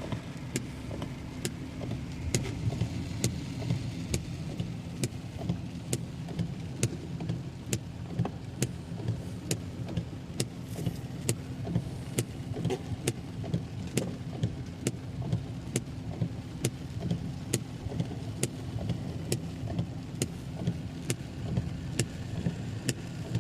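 Inside a moving car: steady engine and road rumble, with a regular ticking about twice a second.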